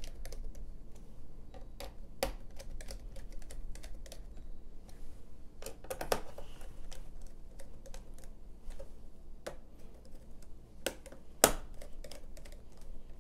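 Irregular small clicks and taps of a precision Phillips screwdriver driving screws back into the plastic bottom case of a Compaq Presario CQ61 laptop, with hands shifting on the case. One sharper click comes near the end.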